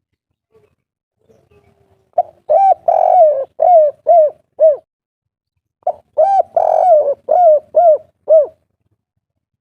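Spotted dove cooing its 'kuk 3' song: two phrases of short, arched coos, each with one longer coo near the start, the first about two seconds in and the second about six seconds in.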